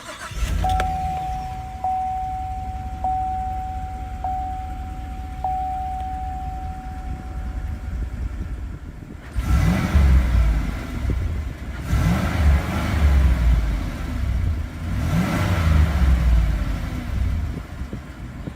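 2017 GMC Sierra Denali's 6.2-litre V8 starting and idling, while a dashboard warning chime dings about five times. From about nine seconds in, the engine is revved three times, each rev rising and falling away.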